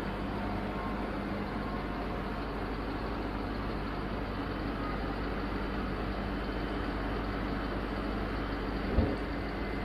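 Tractor engine running steadily while driving a hydraulic rotary broom that is sweeping. A single sharp knock about nine seconds in.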